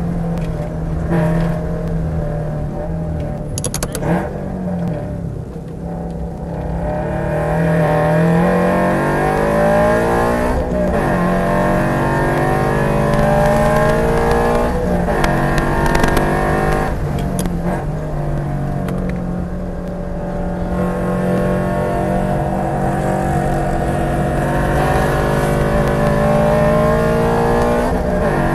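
Toyota GR86's E85-tuned flat-four engine running hard on track, heard from inside the car. Its pitch dips sharply and climbs again several times as the revs fall and rise.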